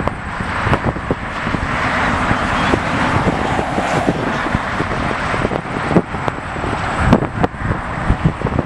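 Steady outdoor traffic and engine noise, with frequent low thumps on the microphone.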